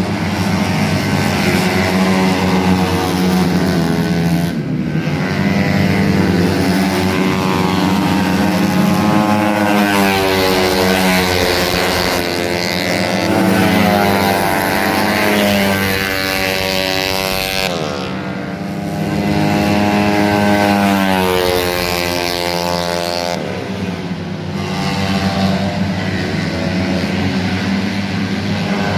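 A 150 cc automatic scooter engine being revved up and down during a tune-up. Its pitch climbs and falls over several seconds at a time, and drops back briefly three times.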